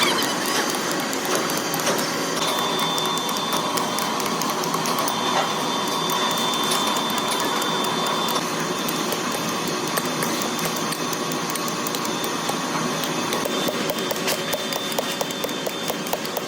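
Workshop machinery running steadily with a rattling, clicking mechanical noise and a faint high whine; the clicks grow denser near the end.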